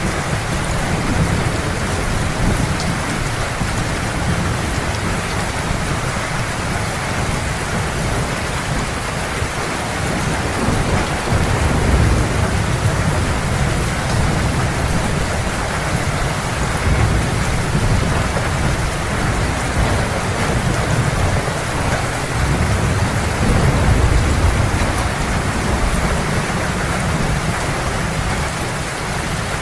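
Heavy rain falling steadily, with low rolling thunder rumbling under it and swelling twice.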